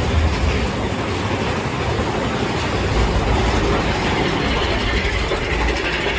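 Mine-train roller coaster running on its track, heard from on board: a steady low rumble with rattling from the wheels and cars.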